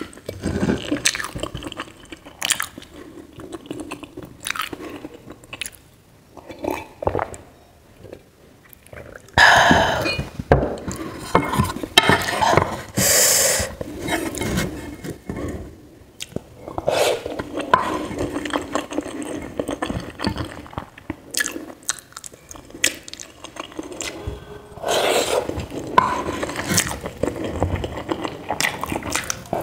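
Close-up eating sounds of macaroni: wet chewing and lip smacks, with a wooden spatula scooping and scraping the pasta against the pan. The loudest moments come in bursts, one about ten seconds in and another around thirteen seconds.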